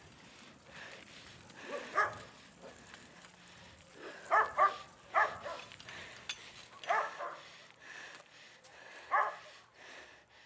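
A dog barking: about six short barks spread over several seconds, two of them in a quick pair.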